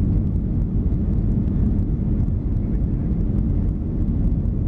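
Steady low rumble of a Boeing 737-300's CFM56 engines and airflow, heard inside the passenger cabin.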